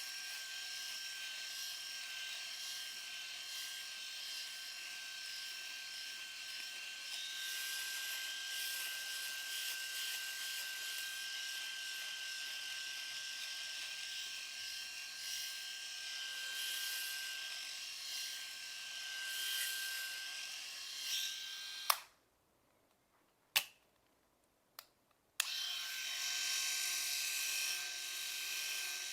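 Electric shaver running with a steady high-pitched whine while it shaves short moustache stubble. It cuts out to silence for about three seconds, with a couple of clicks, about three-quarters of the way through, then runs again.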